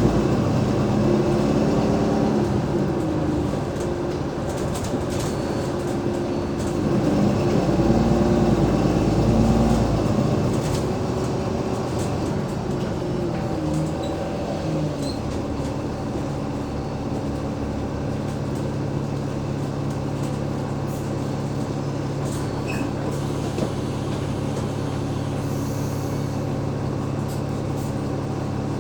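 Cummins ISL8.9 diesel engine of an Alexander Dennis Enviro500 MMC double-decker bus, driving through a ZF Ecolife automatic gearbox. The engine note rises and falls several times over the first half, then settles to a steady idle about halfway through.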